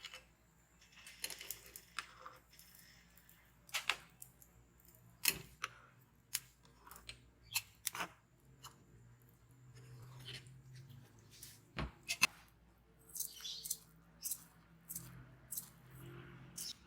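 Kitchen handling sounds: scattered light clicks and knocks of utensils and cookware, irregular and a second or so apart, with a brief rustle about two thirds of the way through.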